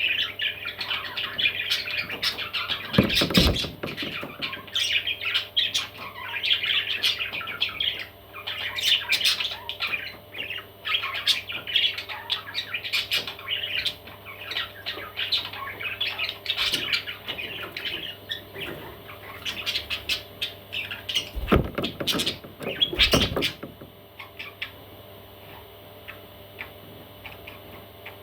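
Baby parrots squawking and chirping almost without pause, with a few loud knocks about three seconds in and twice more near the end; the calling thins out over the last few seconds.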